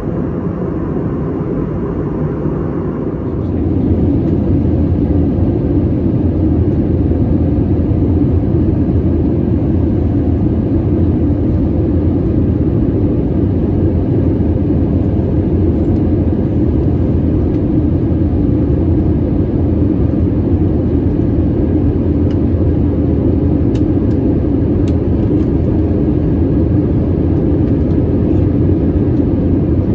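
Airbus A320 cabin noise on approach: a steady rush of engines and airflow. About three and a half seconds in it turns louder and deeper and stays that way.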